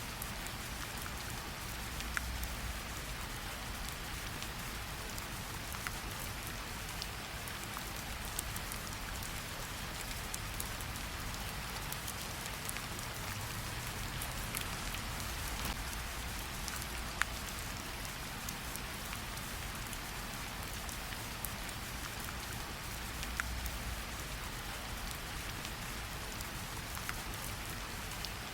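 Gentle, steady rain pattering on tree leaves, with scattered single drops dripping and ticking sharply here and there.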